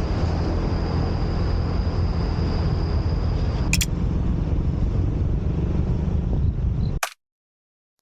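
Suzuki Address 125 scooter running under way, a steady engine rumble with road and wind noise and a thin high whine over the first few seconds; a click comes about halfway, and the sound cuts off abruptly about seven seconds in.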